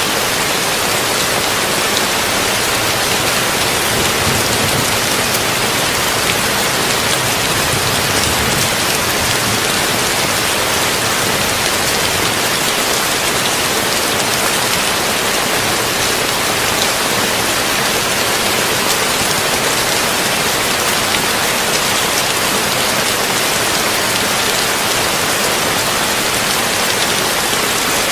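Heavy rain falling steadily on a tin roof, a dense, even hiss of many drops, with a low rumble that swells and fades between about four and nine seconds in.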